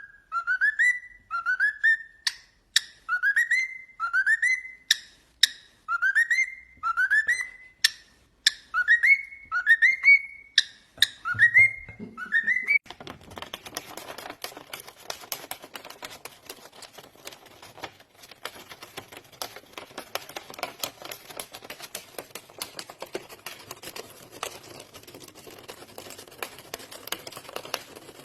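A parrot whistles the same short rising note over and over, about once a second, roughly a dozen times. After about twelve seconds the whistling stops and a quieter, steady crackling and rustling noise takes over.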